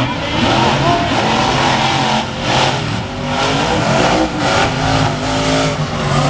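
Monster truck engines running loud at the drag-race start, revving in repeated surges over a steady low drone.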